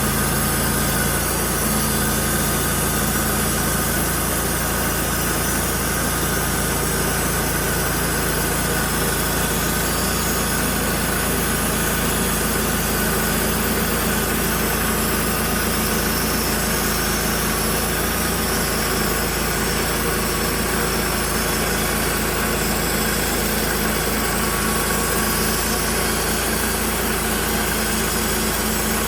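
Portable band sawmill running steadily, its engine and blade making a constant drone.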